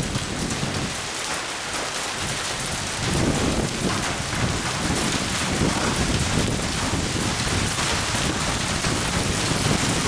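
Heavy rain mixed with golf-ball-sized hail pounding down in a dense, steady clatter, getting louder and heavier about three seconds in.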